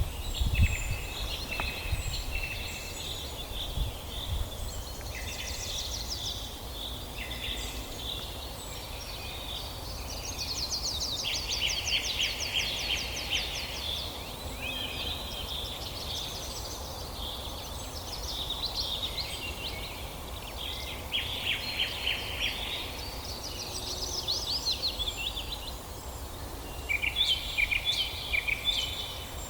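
Several songbirds singing at once, a steady stream of overlapping chirps and rapid trills, over a low steady rumble. A few dull thumps in the first few seconds, the loudest about half a second in.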